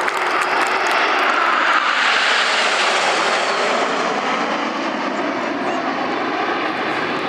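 BAE Hawk T1 jets flying past, their Rolls-Royce Turbomeca Adour turbofans making a steady roar that swells about two seconds in, then eases a little with a slight fall in pitch.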